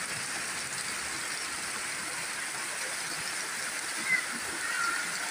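Steady rain falling on wet ground, leaves and a water-filled basin, an even hiss of drops. Two brief faint high chirps sound a little after four seconds in and again near five seconds.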